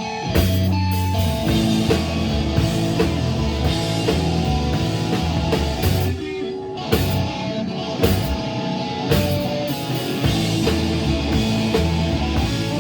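Live rock band playing an instrumental passage: electric guitar over bass and a drum kit, with a brief thinning of the bass and drums about six seconds in.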